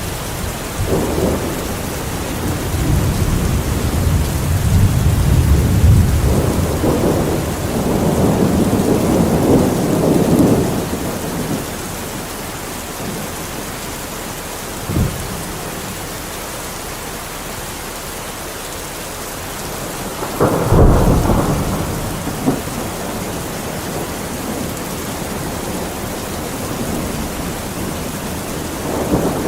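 Steady rain with thunder: low rolling rumbles through the first ten seconds or so, a short sharp crack about fifteen seconds in, and a sudden clap at about twenty seconds that rumbles away.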